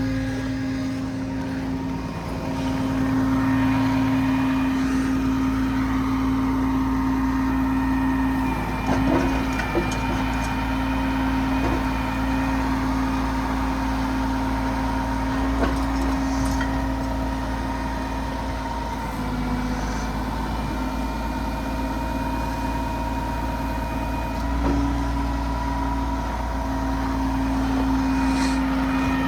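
Diesel engine of a 2006 Peterbilt 335 mechanic's truck running steadily, with a steady whine from the hydraulics that work its crane and outriggers. A few faint clicks come about ten and sixteen seconds in.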